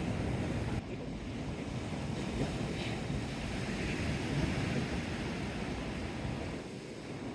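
Sea waves washing against the shore, with wind buffeting the microphone in a low rumble.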